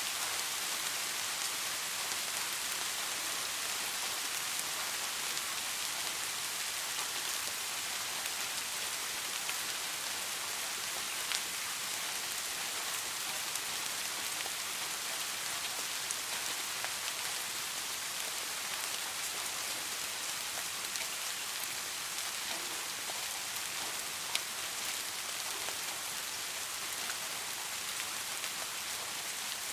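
Steady rain falling on a surface, a continuous even hiss of drops with a few sharper single drip ticks, notably about 11 seconds and 24 seconds in.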